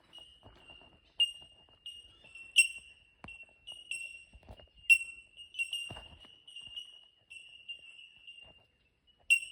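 Bell miners (bellbirds) calling: a chorus of short, clear, bell-like 'tink' notes, all at about the same high pitch, overlapping from several birds at two or three notes a second.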